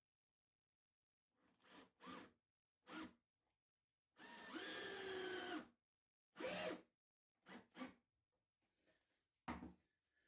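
Cordless drill run in short trigger bursts, the longest lasting about a second and a half, its pitch bending under load, with a sharp knock near the end.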